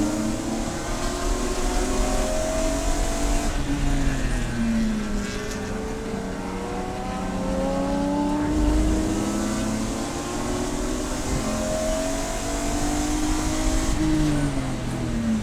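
Race car engine under hard acceleration, its pitch climbing for several seconds at a time and then dropping back, three times over, with a falling pitch near the end as the car slows.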